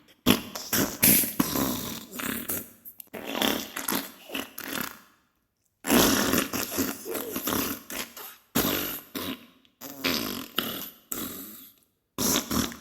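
Diarrhea sound effect: a run of wet farting in irregular bursts, broken by brief silences about five seconds in and again near the end.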